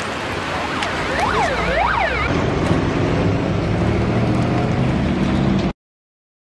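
An emergency vehicle's siren sweeps quickly up and down twice over steady road noise. A louder low engine drone then comes in, and the sound cuts off abruptly shortly before the end.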